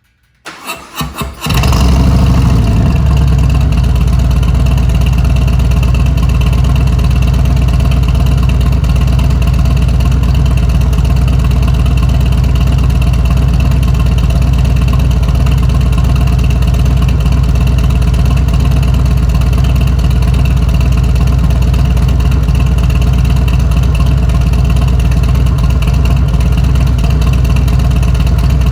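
2021 Harley-Davidson Sport Glide's Milwaukee-Eight 107 V-twin, breathing through a Cobra slip-on muffler, cranking on the starter for about a second, catching, and easing down to a steady idle.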